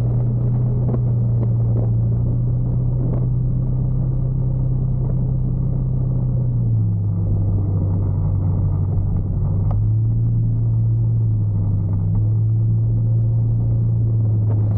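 Motorcycle engine running steadily under way. Its note drops a little about seven seconds in and picks back up about three seconds later as the speed changes.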